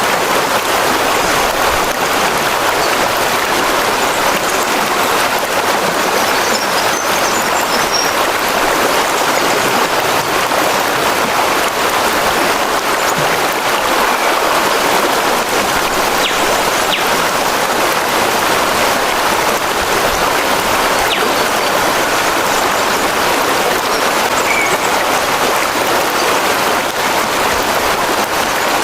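Steady rushing water, an even hiss that doesn't let up.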